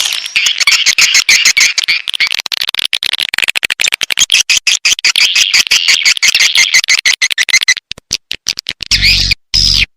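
Edible-nest swiftlet calls on a swiftlet lure track ('suara panggil'): a dense, rapid chattering of high chirps and clicks. Near the end come a couple of short pulses with a low buzz under the chirps.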